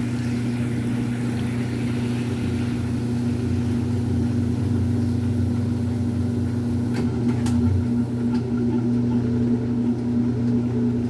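Brastemp Super Filtromatica washing machine running with a steady motor hum, with a couple of faint clicks about seven seconds in.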